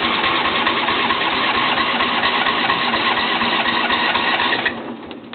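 John Deere L120 lawn tractor's Briggs & Stratton engine cranking on the electric starter with the choke on, turning over steadily without catching, then stopping near the end. The owner puts the failure to start down to a weak battery.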